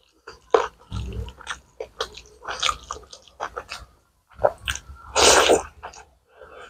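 Close-miked eating sounds: chewing with wet mouth clicks and smacks while eating rice and curry by hand, with a louder half-second rush of noise about five seconds in.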